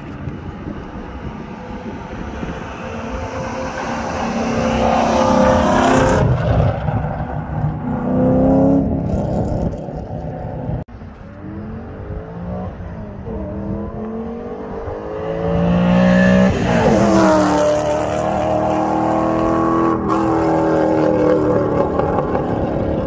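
Ford 4.6 L three-valve V8 car accelerating hard past at full throttle, twice. Each time the engine note climbs as it approaches and drops in pitch as it goes by, about six seconds in and again about seventeen seconds in.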